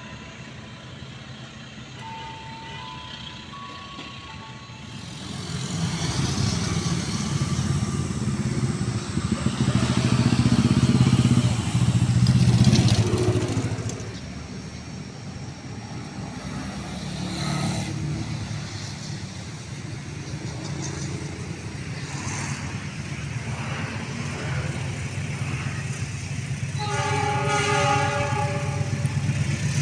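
Diesel-electric passenger train running along the track: a low rumble builds from about five seconds in and is loudest around ten to thirteen seconds. Later a diesel locomotive approaches with a steady low rumble and sounds a long, loud multi-tone horn near the end.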